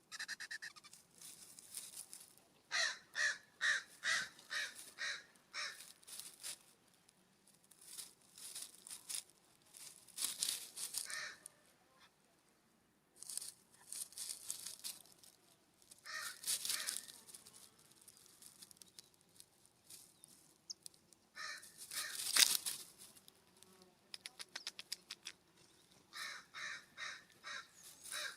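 California Scrub-Jays calling: harsh, raspy calls given in quick runs of about three a second, with scattered single calls between.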